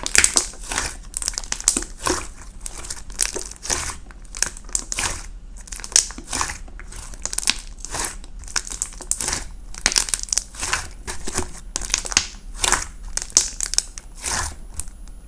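Irregular crinkling and rustling, a quick, uneven run of short crackles.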